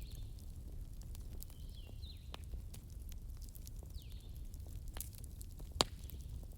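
Burning logs crackling with irregular sharp pops, one louder pop near the end, over a steady low rumble of the fire. Birds chirp in short falling calls a few times.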